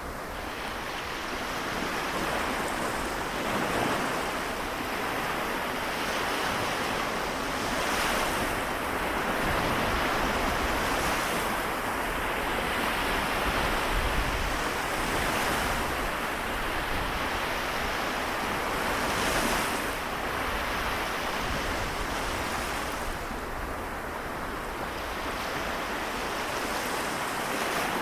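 Seto Inland Sea waves washing in: a continuous wash of water that swells and eases, with louder surges about 8 and 19 seconds in.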